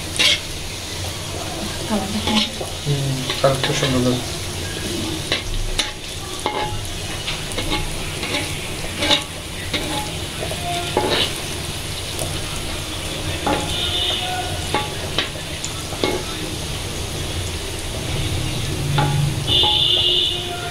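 Piyaji (onion fritters) sizzling as they deep-fry in hot oil in a pan, with a metal spatula scraping and clicking against the pan as they are stirred and turned.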